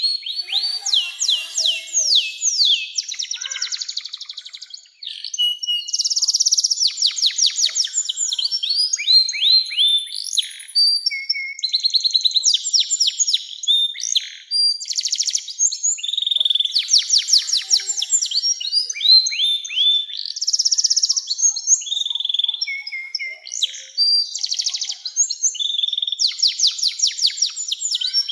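Domestic canary singing a long song of fast trills and rolls: phrases of rapidly repeated notes that change pitch every second or two, with a brief pause about five seconds in.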